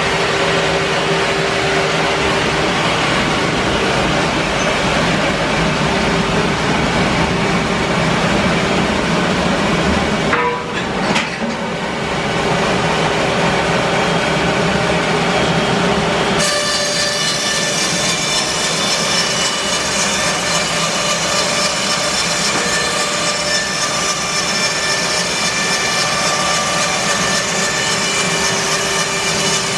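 Bandsaw mill running and sawing through English larch. There is a brief dip about a third of the way in, and about halfway through the sound changes abruptly to a steadier, higher whine.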